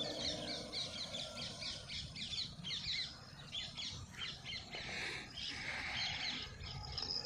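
Birds calling: a rapid string of short, falling chirps, several a second, with a brief hiss about five seconds in.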